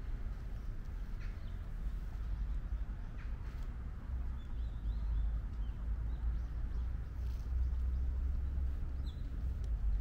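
A steady low rumble with a few short, high bird chirps, faint ones about halfway through and a clearer one about nine seconds in.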